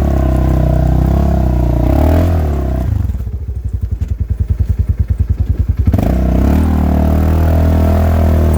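Polaris RZR side-by-side engine running steadily. For about three seconds in the middle it drops to a fast, evenly pulsing throb, then picks back up to a steady run.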